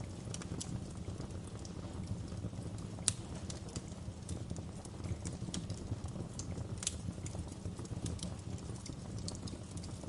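Wood fire burning in a fireplace: a steady low rumble of flames with irregular sharp crackles and pops, the loudest about three and seven seconds in.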